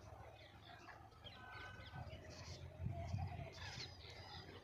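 Several small birds chirping and calling in short, scattered high notes, over a faint low rumble, with a few dull thumps about three seconds in.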